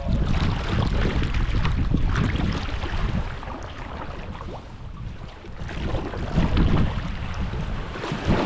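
Wind buffeting the microphone over water splashing around a sea kayak, easing off midway and picking up again.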